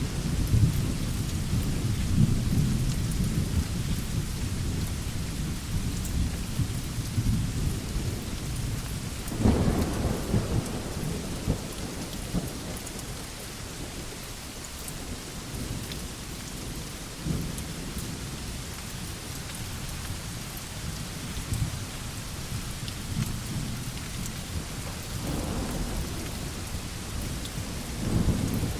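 Steady heavy rain falling on a porch, an even hiss, with a rumbling low undertone that swells a few times, most strongly about a third of the way in and near the end.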